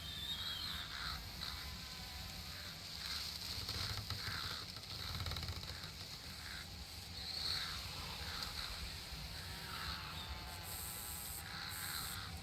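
Summer outdoor nature ambience: insects buzzing, with short high chirps over a steady low rumble. A high, thin insect-like tone comes in twice near the end.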